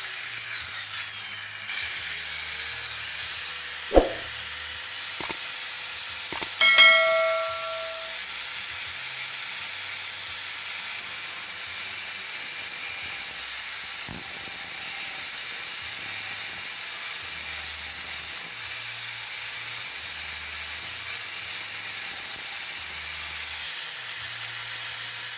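An electric grinding tool's motor whines up to speed about two seconds in and then runs steadily. A sharp knock about four seconds in and a few knocks around seven seconds come over it, one with a ringing metal clang, like a steel blade struck or set down.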